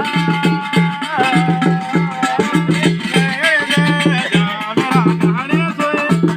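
Garhwali jagar folk music: a steady drum beat under a sustained melodic line that holds notes and then glides.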